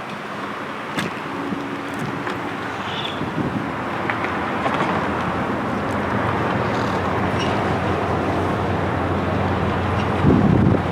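Steady vehicle rumble with a low hum, growing slowly louder, with a few faint clicks and a brief louder swell near the end.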